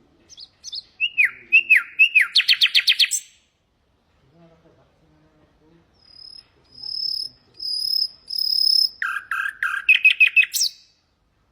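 Common nightingale singing two phrases. The first is down-slurred notes running into a fast series of about eight repeated notes. The second is four long, steady high whistles, then a rapid run of repeated notes that ends in a sharp upward note.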